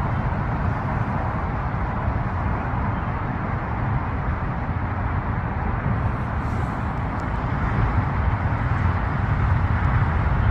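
Steady outdoor vehicle and road noise: a continuous rumble with hiss, growing slightly louder near the end.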